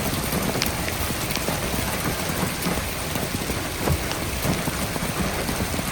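Steady heavy rain falling, with individual drops now and then hitting louder.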